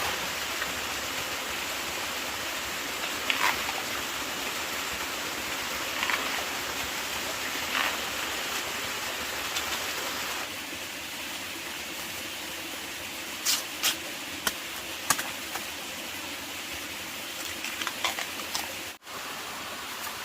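Steady rushing noise like flowing water, with a few light knocks here and there. The sound changes abruptly about halfway through.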